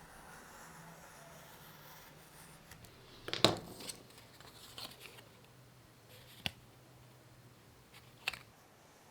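Hand work on bicycle parts: a handful of sharp clicks and knocks, the loudest about three and a half seconds in and then three smaller ones spaced over the next five seconds, over a faint steady hum.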